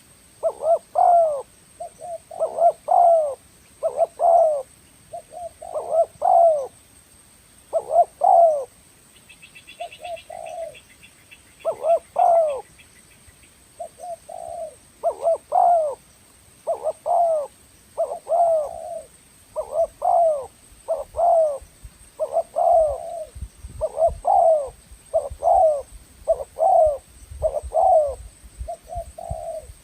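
Spotted dove cooing: a long series of short, low coo notes, given in runs of two or three with short gaps. A faint, fast, high trill sounds briefly about ten seconds in.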